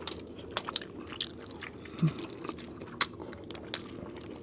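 Close-up eating sounds: wet chewing and lip-smacking with scattered sharp mouth clicks, as people eat grilled fish and rice with their hands. A short low hum comes about two seconds in, and a steady faint high whine runs underneath.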